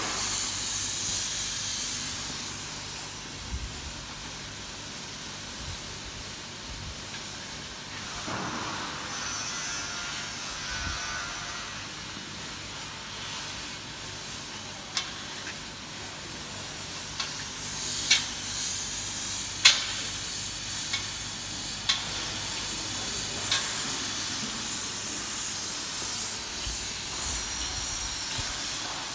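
Manual welding torch on header and riser tubes, its flame hissing steadily, with a few sharp metallic clicks and taps.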